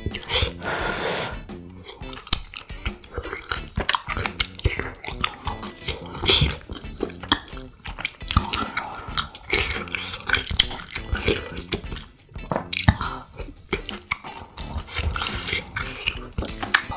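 Close-up eating sounds: chewing spicy marinated duck and biting into a crisp asaki green pepper. Irregular crunches and wet mouth sounds run throughout, with the odd click of chopsticks against the pan.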